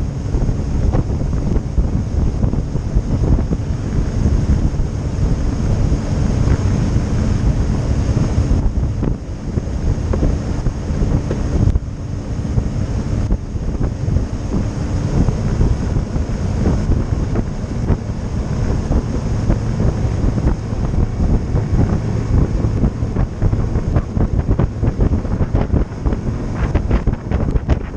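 Strong wind buffeting the microphone on a moving motorboat, over the boat's motor running and water rushing past the hull. A faint steady hum fades out about halfway through.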